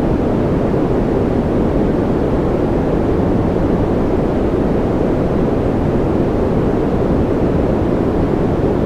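Continuous sleep-aid noise, a steady unchanging rushing hiss weighted toward the low end, deeper than flat white noise.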